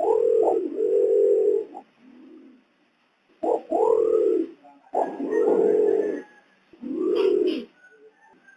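Imperial pigeon (pergam) cooing: a series of deep, hollow coos, each opened by a short rising note, in about five phrases with pauses of a second or so between them.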